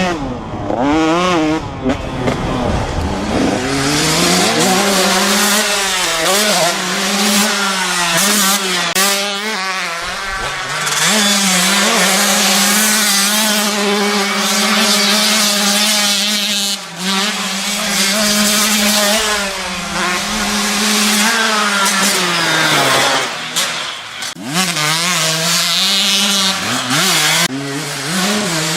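Two-stroke dirt bike engine sound, revving up and down over and over with a buzzing note, like motocross bikes racing; it dips briefly twice.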